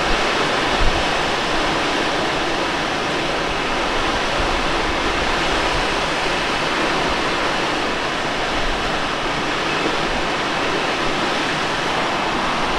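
Steady rushing of air past a Let L-13 Blaník glider in flight, an even hiss with no engine note.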